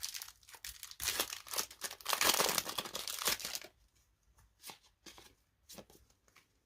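Pokémon card booster pack's foil wrapper crinkling and tearing open for about three and a half seconds, then a few faint separate clicks and rustles.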